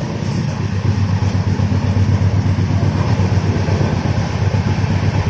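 Indian express train's passenger coach running at speed on the rails, heard from a window seat: a loud, steady low rumble of wheels and coach.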